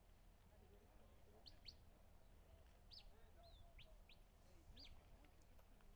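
Faint, quick, high-pitched bird chirps, about seven short notes scattered through a few seconds over a low, steady background rumble.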